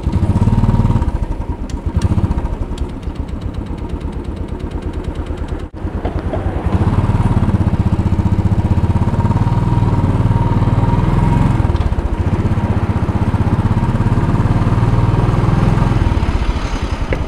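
Royal Enfield Bullet 500's single-cylinder engine pulling away and riding under throttle, its rapid, even exhaust beat swelling and easing as the throttle opens and closes. The sound drops out briefly about six seconds in, is held strongly under load for most of the rest, and eases off near the end.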